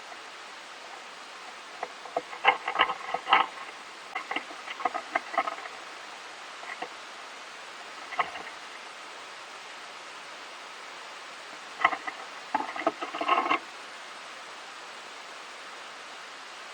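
A squirrel gnawing and crunching food in short bursts of rapid clicking crunches, four bursts with the densest near the start and near the end, over a steady hiss.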